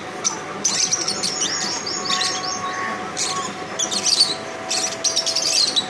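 Birds chirping in quick, high-pitched bursts, several clusters of calls one after another.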